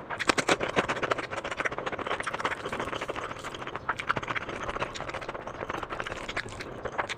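Close-miked eating: a dense run of quick wet mouth clicks and smacks from chewing food.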